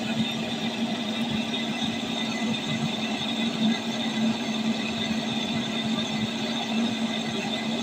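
A steady machine hum with a constant low drone.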